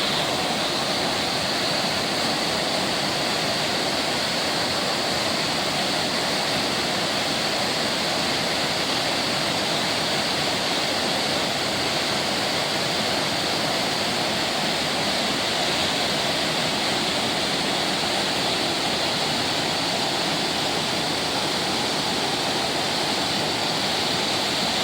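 Waterfall falling steadily: an even, unbroken rush of water.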